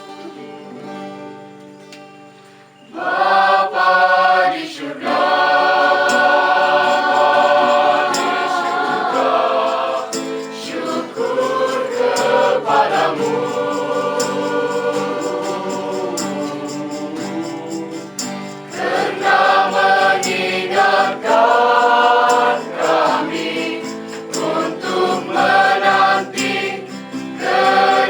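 A choir singing in harmony, holding long notes. It starts soft and comes in loudly about three seconds in.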